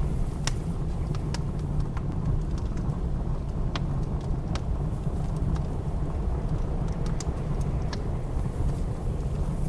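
Blizzard wind blowing as a steady low rumble, with a wood fire in a fireplace crackling: about a dozen sharp pops at irregular intervals.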